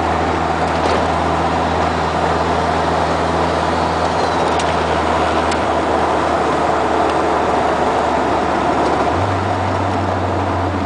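Dodge Daytona IROC R/T's turbocharged four-cylinder engine cruising steadily, heard from inside the cabin with road and wind noise. Its engine note steps up slightly about nine seconds in.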